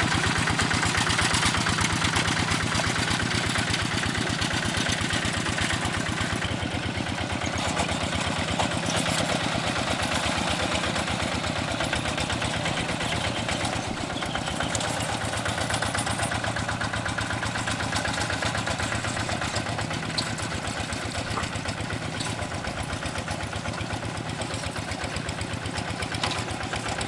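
A rice-paddy tractor's engine running steadily, its firing pulses coming in a fast, even beat.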